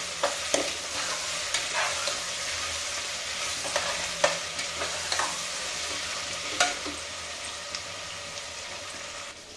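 Onions and tomatoes sizzling in mustard oil in an aluminium pressure cooker, stirred by hand with a metal spoon that clicks and scrapes against the pot several times.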